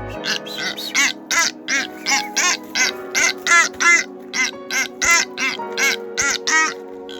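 Seabirds calling over and over, short pitched calls coming two or three a second, over a steady held tone.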